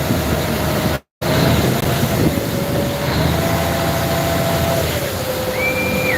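Chao Phraya express boat's engine running steadily under a loud wash of water and wind noise, its engine note shifting in pitch a few times. The sound cuts out completely for a moment about a second in, and a short high tone sounds near the end.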